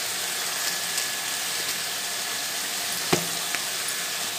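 Onion-tomato masala sizzling steadily in oil in a metal kadai, with one short metallic clink about three seconds in.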